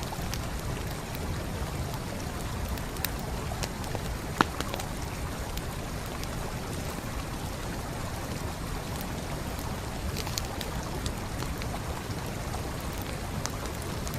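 Wood campfire crackling with scattered sharp pops, one loud pop about four seconds in, over the steady rushing of a flowing stream.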